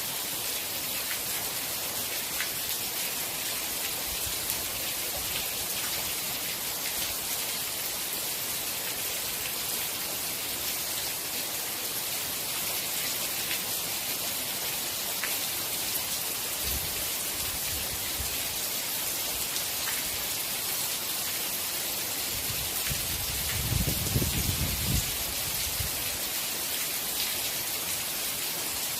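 Steady rainfall, an even hiss of drops on a surface, with a brief low rumble about two-thirds of the way through.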